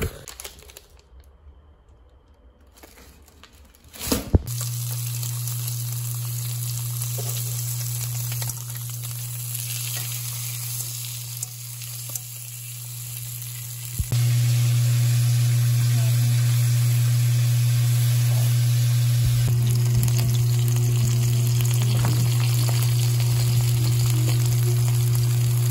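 Pork belly slices and then eggplant slices frying in a pan: a steady sizzle over a low steady hum. It starts about four seconds in and gets louder about halfway through.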